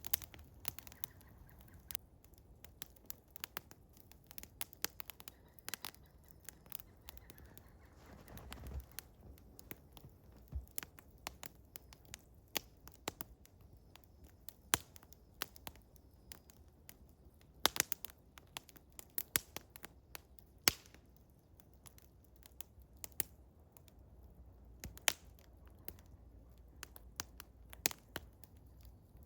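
Eastern hemlock wood fire crackling, with irregular sharp pops and snaps coming several times a second. A soft hiss rises briefly about six seconds in.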